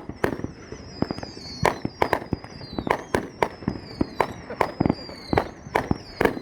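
Fireworks going off in rapid succession: many sharp bangs, about two to three a second, over high whistles that slowly fall in pitch.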